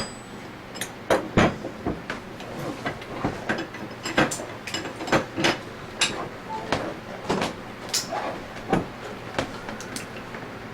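Hand tools and metal parts clicking and clanking together in irregular knocks, several a second at times, with the sharpest knocks near the start and about a second in.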